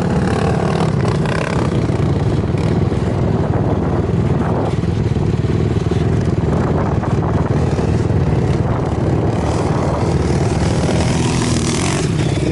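Quad bike engine running under throttle, a steady loud engine sound with some clatter.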